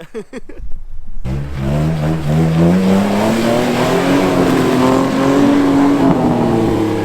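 Jeep engine revving hard under load on a snowy hill climb, starting abruptly just over a second in, its pitch climbing steadily for a few seconds and easing off again near the end, over a steady hiss.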